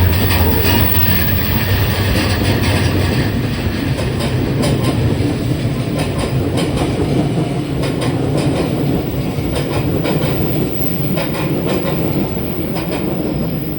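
A train running past, its wheels clicking over the rail joints with a steady rumble; it eases off slightly near the end.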